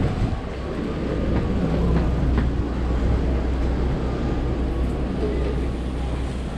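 Steady low rumble of a vehicle heard from inside, with a few faint clicks and rattles.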